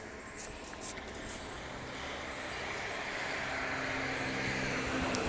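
A road vehicle approaching along a wet street, its tyre and engine noise growing steadily louder.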